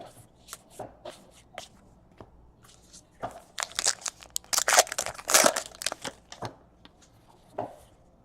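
Baseball card pack being handled: the wrapper is torn open and crinkled and the cards are shuffled, with scattered soft rustles. The rustling is busiest and loudest in the middle, for about two seconds.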